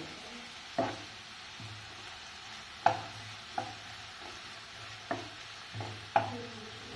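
Chopped onions sizzling in oil in a ceramic-coated kadai as they are stirred, with about six sharp knocks of the stirring utensil against the pan.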